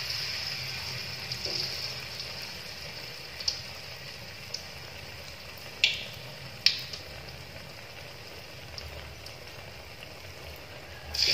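Battered tempe deep-frying in hot oil in an aluminium wok: a steady sizzle that slowly dies down, with three sharp pops of spitting oil. Near the end the sizzle suddenly swells as another battered piece is dropped into the oil.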